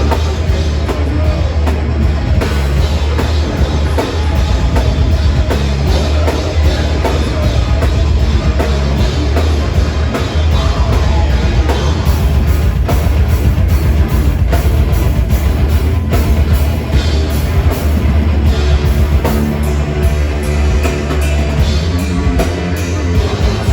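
A heavy metal band playing live: distorted electric guitars, bass and a pounding drum kit, loud and continuous with heavy booming bass.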